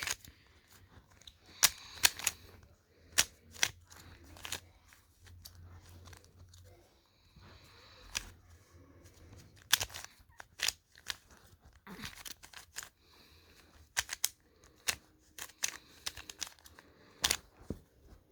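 Plastic Rubik's-type puzzle cube being turned by hand: irregular clicks and clacks as its layers are twisted while the cross is built.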